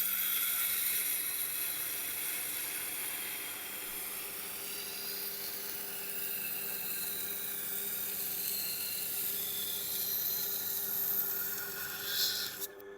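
A chef's knife's steel edge grinding against the turning wheel of a Tormek T8 sharpener: a steady, hissing scrape that starts abruptly and stops just before the end, over the grinder's low motor hum. It is the edge being ground until a burr forms.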